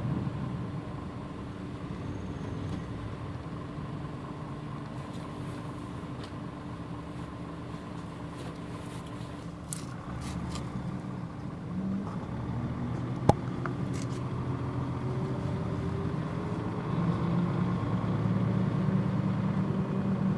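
Mitsubishi Fuso Aero Star (PJ-MP35JM) bus diesel engine heard from inside the cabin while the bus is under way. The engine note eases off just after the start and builds again about twelve seconds in, with light ticks and one sharp click about a second later.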